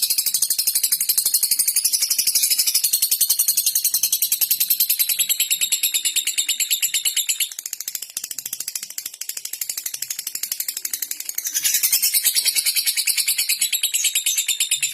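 Lovebird chattering in a fast, continuous run of high ticks, like rapid typing. It drops quieter for a few seconds in the middle, then comes back at full strength.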